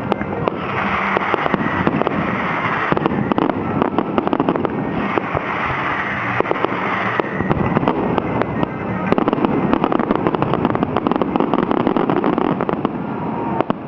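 Fireworks finale: a dense, unbroken barrage of aerial shell bursts, many sharp bangs and crackles a second.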